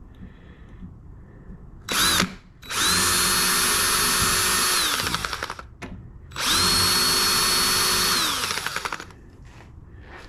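Electric drill motor running in two spells of about two seconds each at a steady pitch, each winding down as the trigger is released, after a short blip about two seconds in.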